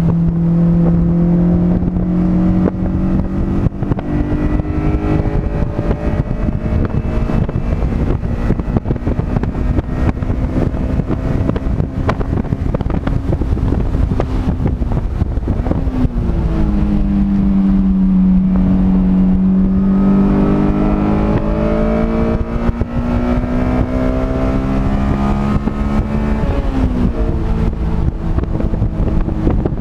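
Car engine lapping a race track under load, with wind rushing over the microphone. The engine note climbs slowly, drops sharply about halfway through, then climbs again and dips once more near the end.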